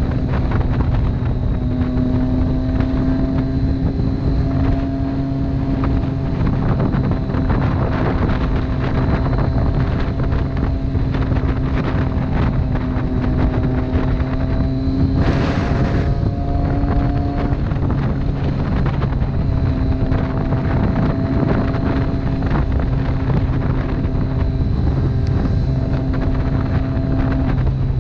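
Motorcycle engine running steadily at cruising speed, heard from on board under constant wind noise, its pitch drifting slightly. A brief rush of noise comes about halfway through.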